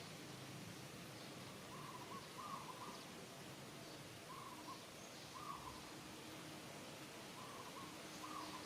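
Short hooting animal calls, mostly in pairs of notes at one fixed pitch, repeating every second or two over steady outdoor background noise.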